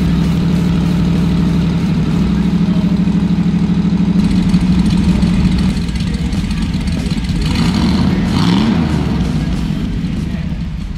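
5.7-litre LS V8 with an Isky cam running at a steady fast idle through a custom exhaust with boom tubes, while it drives the rear wheels of the bare chassis. Near the end the engine gives one brief rev that rises and falls.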